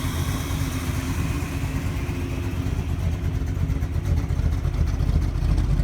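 1948 Mercury coupe's engine running at idle with a steady, deep rumble and a slight lope from a mild performance cam.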